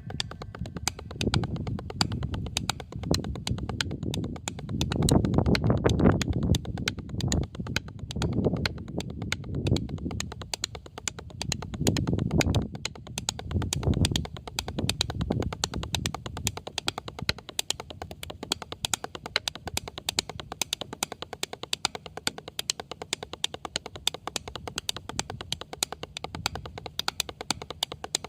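Fast, even tapping, about seven or eight taps a second, with low gusty rumbles of wind on the microphone that swell several times in the first half.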